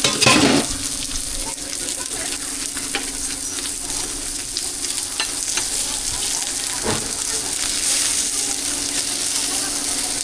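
Food frying, sizzling steadily, over a steady low hum, with a knock near the start and another about seven seconds in.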